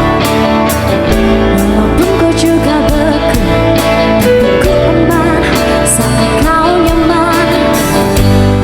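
Live band performing a pop ballad: a singer's voice with vibrato over guitar chords and a steady beat.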